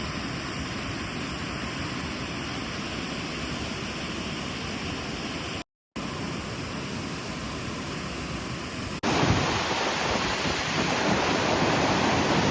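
Steady rushing noise with no clear pattern, broken by a brief dropout about six seconds in and jumping abruptly louder about nine seconds in.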